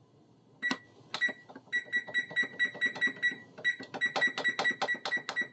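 Electronic oven control panel keypad beeping as it is set: two single beeps, then long runs of quick, high-pitched beeps, about five a second, each with a faint button click.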